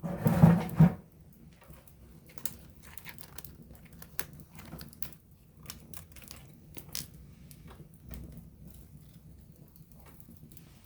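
Wood campfire crackling close up: a louder crunching burst in the first second, then scattered sharp pops and snaps of the burning wood.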